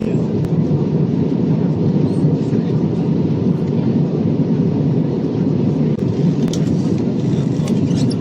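Steady cabin noise inside an Airbus A320 in flight: an even rumble of engines and airflow, with a few faint ticks near the end.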